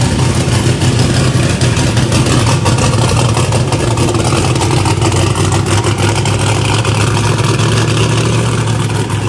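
5.3-litre iron-block V8 race engine running steadily and loud, with a rapid choppy exhaust pulse, on its first successful start.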